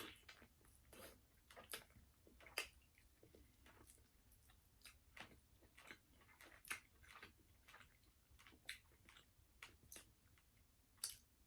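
Close-miked chewing of KFC fried food: a string of short, moist mouth clicks and soft crunches at an irregular pace, with a few louder bites.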